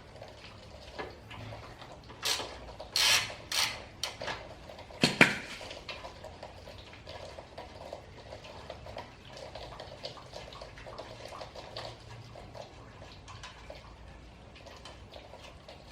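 Metal tools and bolts clinking while a bolt is undone on a vehicle's front suspension. There are a few clinks two to four seconds in and a sharper clank about five seconds in, then faint handling rattles.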